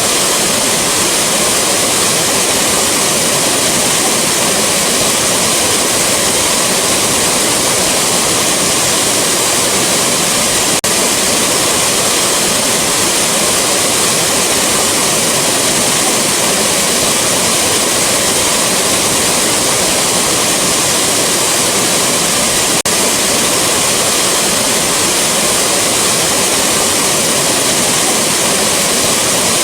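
Rushing waterfall: a loud, steady roar of falling water, with most of its energy in the higher frequencies. The level dips for an instant twice, about 11 and 23 seconds in.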